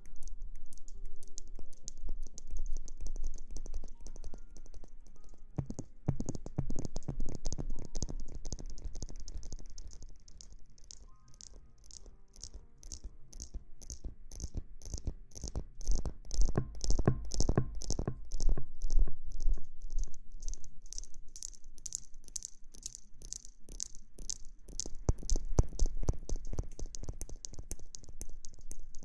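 ASMR hair-washing sounds made close on a microphone: fingers scrubbing and scratching in quick, even strokes, about three a second, easing off for a moment near the middle. Faint music plays underneath.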